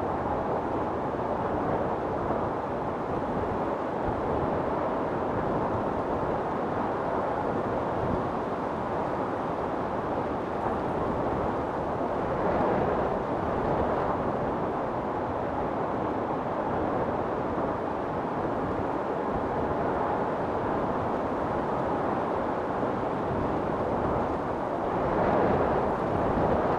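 Storm wind blowing hard and steadily, with two gusts swelling up, one about halfway through and one near the end.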